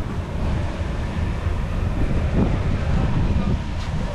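Wind buffeting the microphone of a bike-mounted action camera while riding, a steady low rumble.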